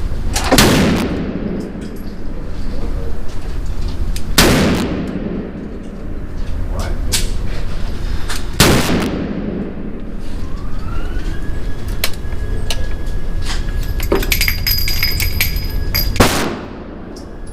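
Four heavy-recoil shots from a Smith & Wesson Model 500 revolver in .500 S&W Magnum, each a loud crack with a long echoing tail. The first three come about four seconds apart, and the last after a longer pause. A faint thin whistle-like tone sounds in that pause.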